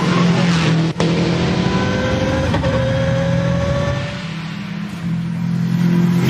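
Race car engine running at high revs, its pitch climbing steadily for a second or two, with a brief sharp drop in sound about a second in.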